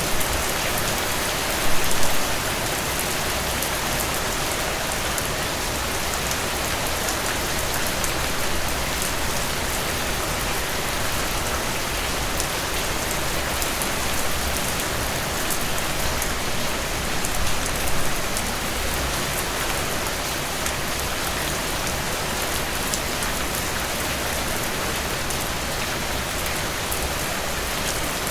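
Heavy rain pouring steadily, a dense hiss of drops hitting surfaces with a few louder low thumps of drops or runoff about two seconds in and again near eighteen seconds.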